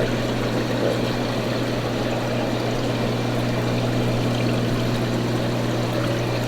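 Aquarium filtration in a fish store: water steadily pouring and trickling through the tanks' circulation, over a constant low pump hum.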